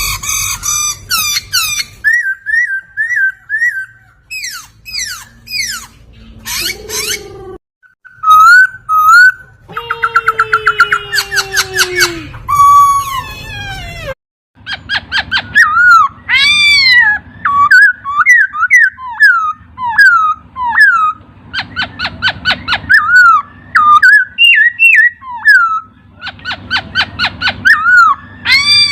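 Poksay (laughingthrush) singing a loud, varied song of whistled notes that slide up and down, fast trills and sharp chirps, with two sudden breaks in the first half.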